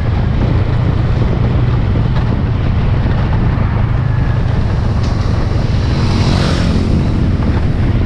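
Motorcycle engine running steadily while riding, with heavy wind noise buffeting the microphone.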